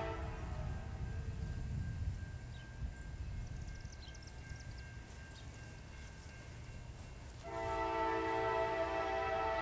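A locomotive's multi-note air horn sounding a chord, cutting off just after the start while the train's low rumble carries on. The horn blows again about seven and a half seconds in and holds on.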